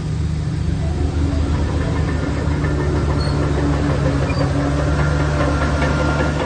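Heavy diesel engine of a Shantui DH17C3 Pro crawler bulldozer running steadily under load. A faint high metallic squeal joins in the last couple of seconds.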